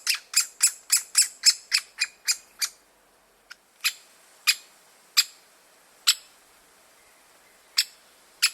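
Great spotted woodpecker giving short, sharp 'kik' calls: a quick run of about three a second that stops near a third of the way in, then single calls every half second to almost two seconds.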